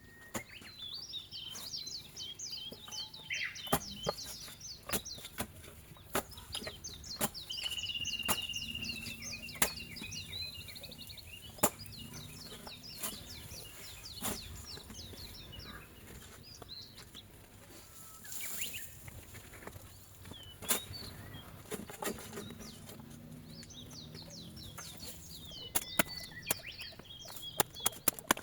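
A songbird singing in repeated phrases of quick chirps, with a few sharp knocks and clicks scattered through.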